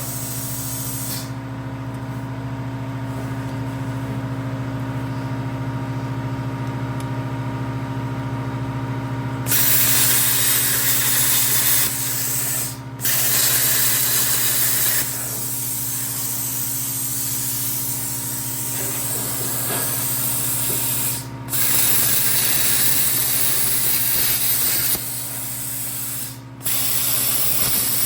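Plasma cutter cutting out rusted sheet steel: a loud hiss of the arc and its air jet in long stretches, starting about a third of the way in and stopping briefly three times, over a steady electrical hum.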